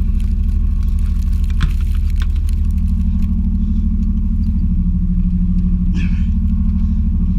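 Chevy 350 small-block V8 in an '86 K20 pickup idling steadily while it warms up, with a faint click about a second and a half in.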